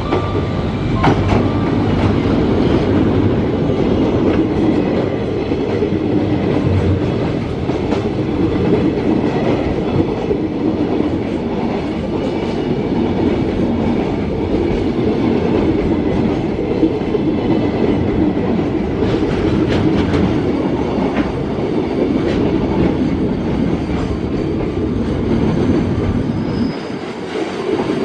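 A freight train hauled by a DD200 diesel-electric locomotive rolling into the station, its wagons rumbling steadily past with the clickety-clack of wheels over rail joints. The sound dips briefly near the end.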